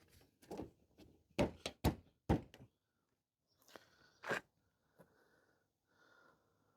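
A series of sharp knocks and thunks: a quick cluster of hard hits in the first couple of seconds, two more about a second and a half later, then a few faint taps.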